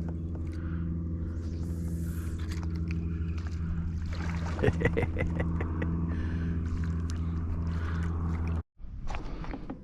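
Electric trolling motor on a fishing kayak running with a steady low hum that pulses about twice a second, with a few light clicks about halfway through. The hum cuts off abruptly near the end.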